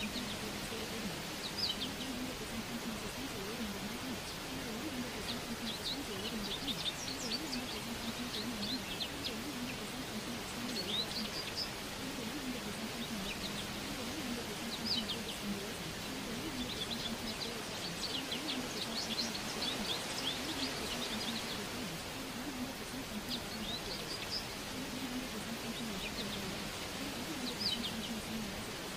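Birds chirping in short scattered bursts over a steady background hiss, with a faint low murmur running underneath.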